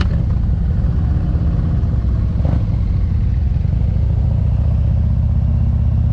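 Motorcycle engine running steadily, with a brief clatter about two and a half seconds in.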